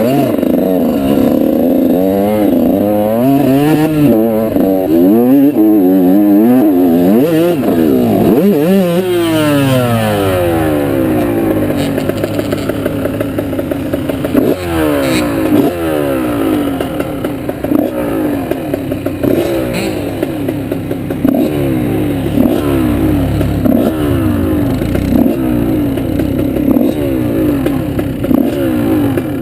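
Off-road motorbike engine under way. The pitch rises and falls again and again as the throttle is opened and shut through the first ten seconds or so, then the engine runs steadier at lower revs.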